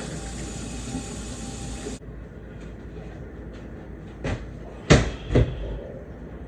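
Three short knocks, the middle one loudest, over a steady background noise, like cupboard doors or household objects being knocked or shut.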